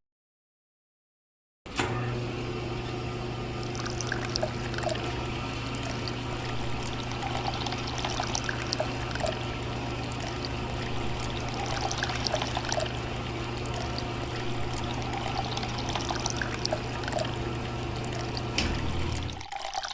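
A small motor hums steadily while water pours and trickles. The sound cuts in suddenly about two seconds in and stops just before the end.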